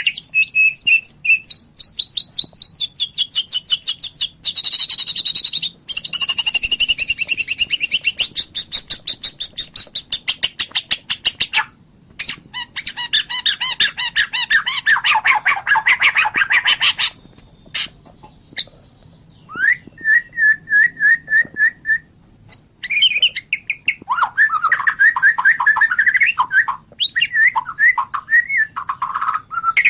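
White-rumped shama singing a long, varied song of rapid trills, rattles and repeated whistled notes, broken by short pauses, with harsh notes mixed in.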